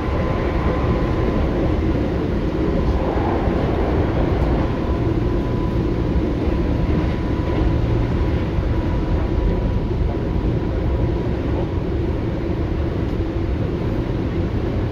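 Keio 8000 series electric train running, heard from inside the car: a steady rumble of wheels on rail with a thin, nearly constant whine over it.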